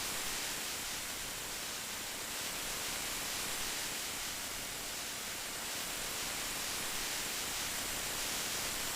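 Steady rain, an even hiss that stays the same throughout, with no single drops or thunder standing out.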